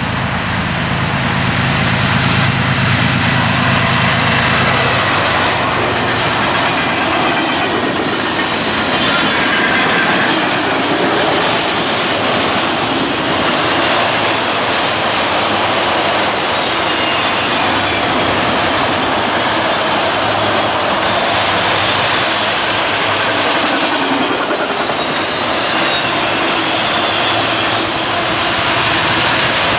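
A train passing close by: a locomotive's engine is heard in the first few seconds, then the cars roll past with steady wheel-on-rail noise and a faint, high, wavering wheel squeal.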